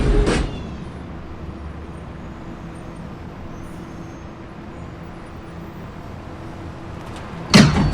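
Interior of an R142A subway car: the loud running noise cuts off about half a second in as the train comes to a stand. A steady low hum of the stationary car follows, with a faint held tone. A sudden loud sound breaks in near the end.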